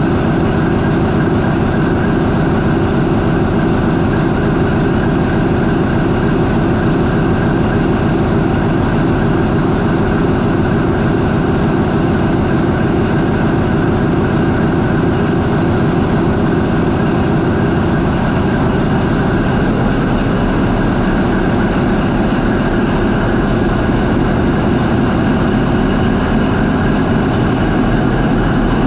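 MAN 20V28/33D STC twenty-cylinder marine diesel main engine running steadily at its 400 RPM idle, loud and dense. In the last few seconds its note rises slightly as the engine is brought up toward 550 RPM.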